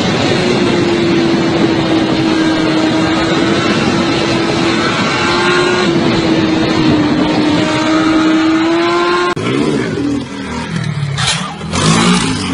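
Motorcycle engine held at high, nearly steady revs for about nine seconds. It then gives way abruptly to a rougher, lower engine sound with two loud, sudden bursts near the end.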